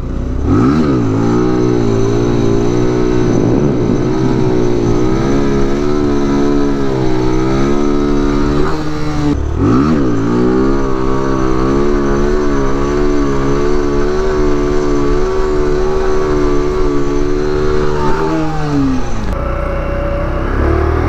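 Small motorcycle engine revving up and held at high revs for long stretches, as in wheelie practice. The revs dip and climb again about nine seconds in, wind down near the end, and pick up again at the very end.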